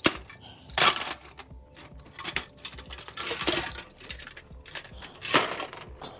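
Small hard objects clattering and rattling: a run of sharp clicks with three louder rattling bursts, about a second in, midway and near the end.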